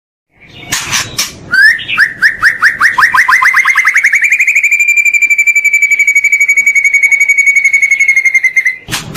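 A songbird's song played for cage-bird training. A few short opening calls lead into a series of repeated notes that speed up into a fast, even, high trill lasting several seconds, which stops just before the end.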